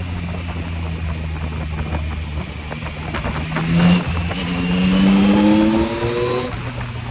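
Yamaha MT-09's three-cylinder motorcycle engine, heard from the rider's position, running steadily and then revving up about three seconds in. After a brief dip it climbs in pitch again for about two seconds and drops off sharply as the throttle closes, with wind rushing past throughout.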